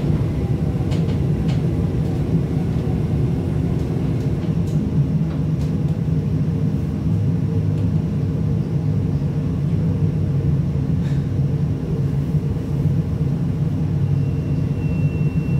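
Breda VLC tram running along the track: a steady low rumble with a few faint clicks, and a short steady high-pitched tone near the end.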